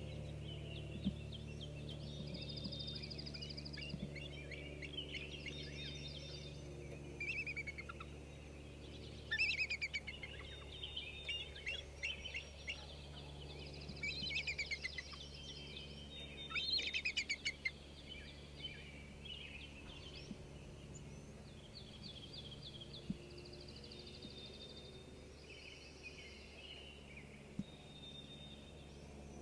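Several songbirds singing, with chirps and trills that come thickest in the middle, over a steady low hum.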